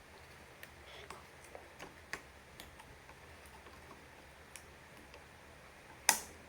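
Light, scattered clicks and taps of small model airplane kit parts being handled during assembly, with one sharp, much louder click or knock about six seconds in.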